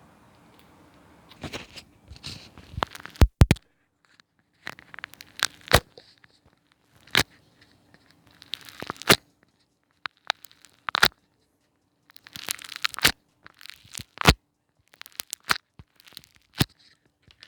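Milk slime mixed with foam being worked by hand, crackling and popping in short bursts with sharp snaps, with short pauses in between.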